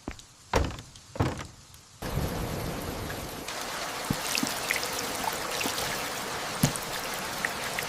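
Two dull thumps in the first second or so, then steady rain comes in abruptly about two seconds in, an even patter with scattered louder drops.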